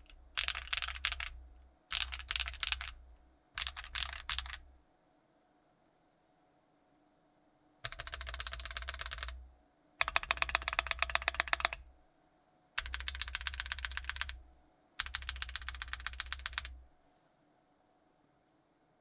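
Typing on an Emotoys Tyche75 gasket-mount mechanical keyboard with a polycarbonate plate, stock Keyfirst Bling Purple switches and ABS doubleshot keycaps. The keystrokes come in quick runs: three short runs, a pause of a few seconds, then four longer runs of about two seconds each.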